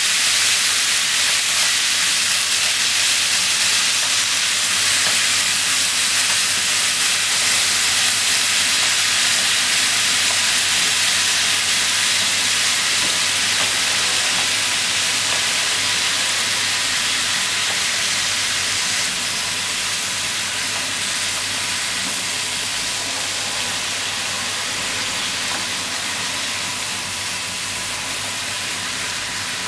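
Cabbage, bean sprouts and pork sizzling in a hot frying pan as they are stir-fried with chopsticks: a steady hiss that slowly grows quieter.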